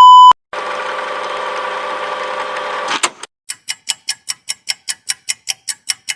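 Camera sound effects: a steady motor whir for about two and a half seconds, ending in a click, then an even run of short mechanical clicks, about four a second.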